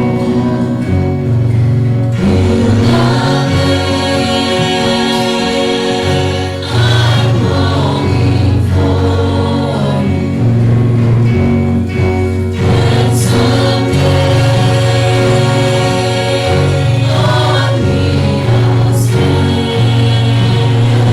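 Gospel hymn sung by a small vocal group with the congregation, over instrumental accompaniment with sustained bass notes.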